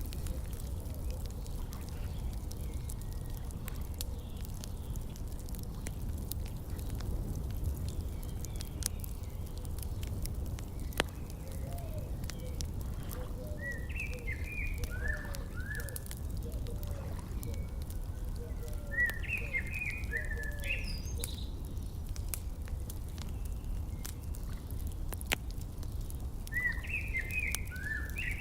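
Wood fire crackling with scattered sharp pops over a steady low rumble. Small birds chirp in short runs of notes about halfway through and again near the end.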